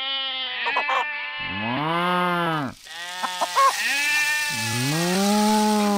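Farm-animal calls in a row, bleating like sheep. There are about four long calls, each rising and then falling in pitch, the last one the longest.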